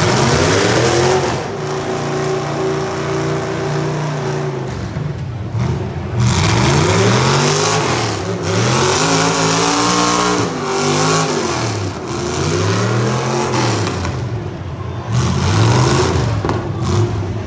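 Modified demolition derby car engines revving hard, their pitch climbing and dropping again and again over a steady din of motor and track noise.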